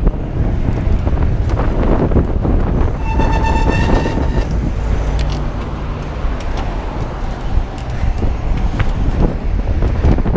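Traffic noise and wind buffeting the microphone of a moving bike. A horn sounds once about three seconds in and is held for just over a second.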